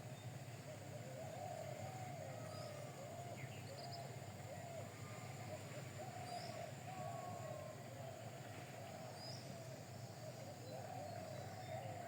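Birds calling: a run of low, wavering calls with a few short, higher chirps, over a faint steady hum.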